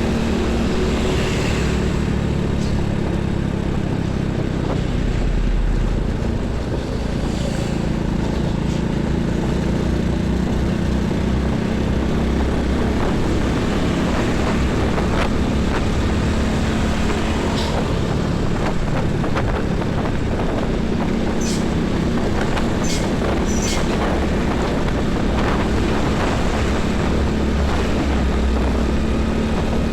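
Heavy highway traffic: trucks and buses passing, with a steady drone of diesel engines and tyre noise. A few short, sharp high sounds cut through about two-thirds of the way through.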